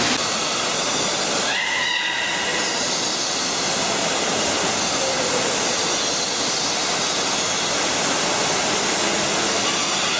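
Steady loud rushing of falling water, an even hiss. A short high bird call with a rising start sounds about one and a half seconds in.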